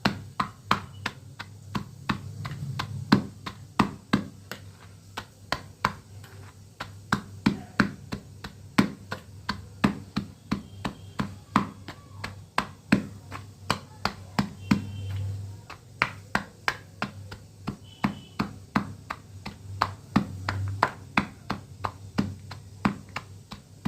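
Brittle dried clay flower shapes being crunched and snapped by hand, giving a steady run of crisp cracks about two a second.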